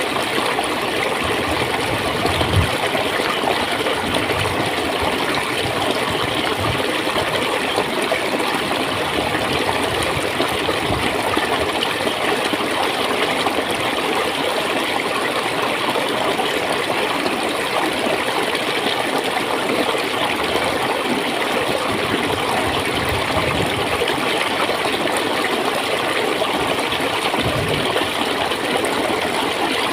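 Clear running water flowing and gurgling steadily.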